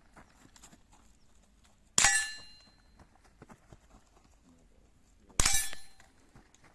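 Two shots from an Umarex Hämmerli TAC R1 .22 LR carbine, about three and a half seconds apart, each followed by a ringing metallic tail that fades over about a second.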